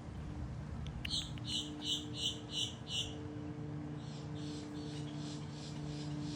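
A bird calling: a quick run of about six short, high, evenly spaced notes, roughly three a second, then fainter repeats, over a steady low hum.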